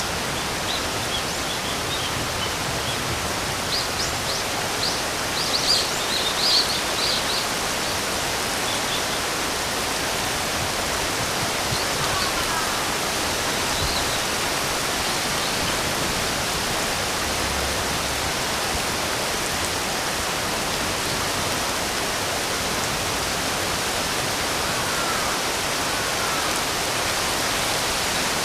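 Steady hiss of rain falling, with birds chirping: a few short high calls in the first couple of seconds and a busier cluster of chirps around five to seven seconds in, then only faint single calls twice later on.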